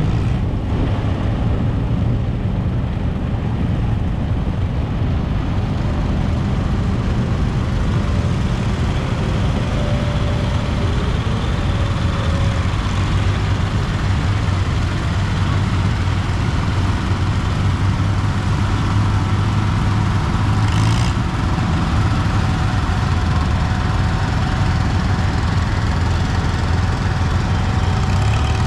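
An engine running steadily at idle, a low even rumble, with a brief sharp click about twenty seconds in.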